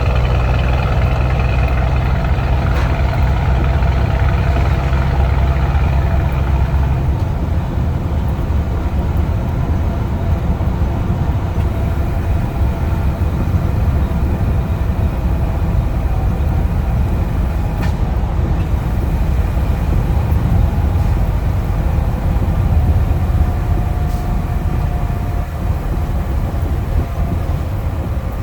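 Scania truck engine running loud through a straight-through exhaust with no muffler. A steady deep engine note fills the first seven seconds or so, then turns into a rougher, noisier rumble.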